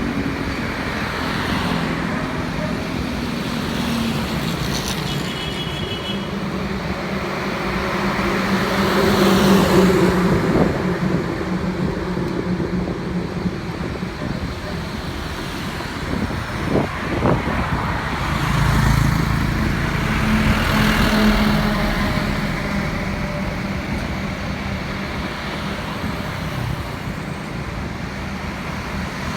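Road traffic: a steady mix of engines and tyre noise from passing vehicles. It swells about a third of the way through and again about two-thirds in as vehicles pass close.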